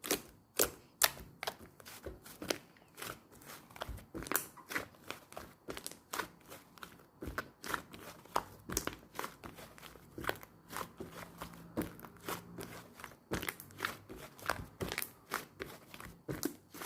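Soft clay slime being squished and pressed by hand, giving a quick, irregular run of sharp little clicks and pops.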